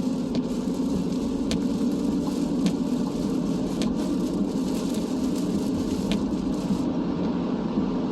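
Steady road and engine noise of a car being driven in the rain, heard from inside the cabin, with a few scattered light ticks.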